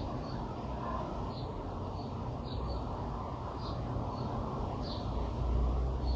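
Outdoor background hum with a bird's short high chirps repeating about once a second, and a low traffic rumble swelling near the end.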